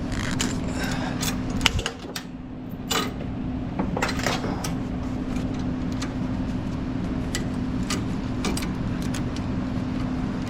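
Steady idling engine drone with a constant low hum, overlaid by scattered light clicks and knocks; one sharper knock comes just under two seconds in.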